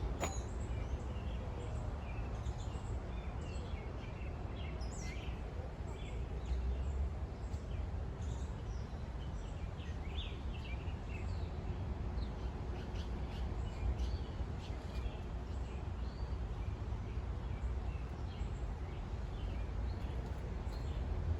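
Birds chirping and calling in many short scattered notes over a steady low rumble.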